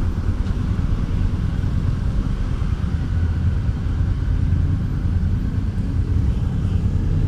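Honda Deauville's V-twin engine running steadily under way, with a constant low rumble of engine and road noise.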